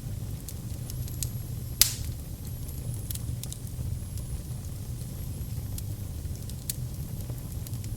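Wood fire burning in a fireplace: a steady low rumble of flames with scattered crackles and pops, the loudest pop about two seconds in.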